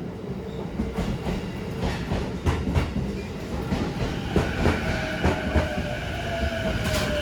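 Mount Mitake funicular cable car running on its track: a steady rumble with frequent clicks and knocks. About four seconds in, a high squeal sets in, with one tone that slowly falls in pitch.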